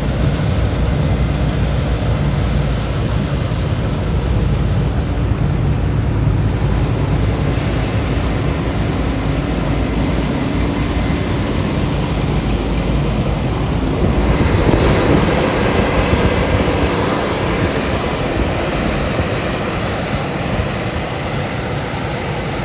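Combine harvester running steadily at work with a low engine drone. About two-thirds of the way through, a louder rushing hiss builds over it.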